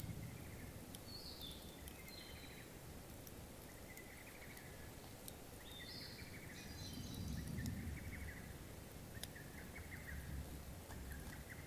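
Birds calling over and over in short chirping phrases, with a few faint sharp crackles from a small wood campfire and a low rumble that swells for a couple of seconds past the middle.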